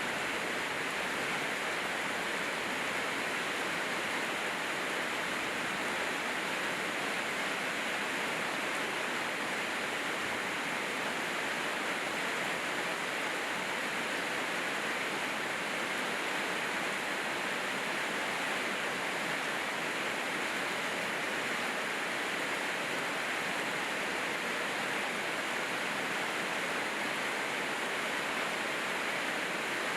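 Steady rainfall, an even hiss that does not change in level, with no single drops standing out.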